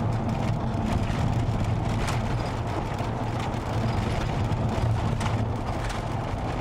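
Car interior road noise: steady engine and tyre hum heard from inside the cabin while driving.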